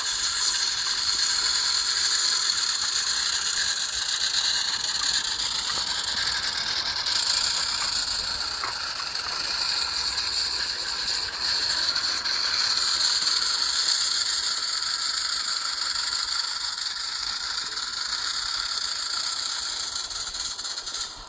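Two Roundhouse live-steam garden-scale locomotives working hard at full throttle: a steady hiss of steam and exhaust with a fine rattle from the valve gear and wheels.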